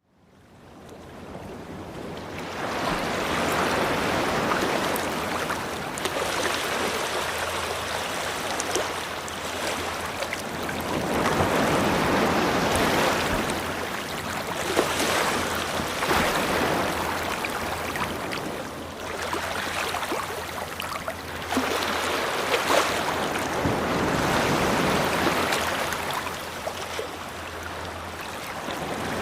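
Rushing water, a steady noise that swells and eases every few seconds after fading in over the first couple of seconds. A low steady hum runs underneath and stops near the end.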